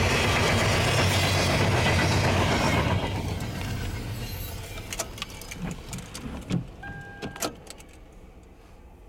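Double-stack container freight train rolling past, a loud steady rumble of wheels on rail that drops off sharply about three seconds in and fades away, with scattered clicks and knocks and a brief steady tone near the end.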